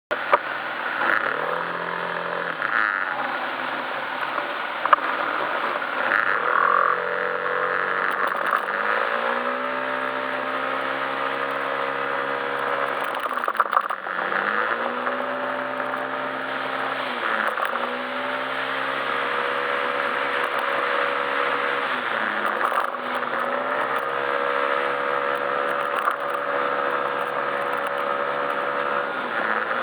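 Yamaha Majesty S scooter's 155 cc single-cylinder engine under way. Its note comes in short spurts at first, then rises and holds steady, dips off and picks up again about three times, over a steady rushing noise.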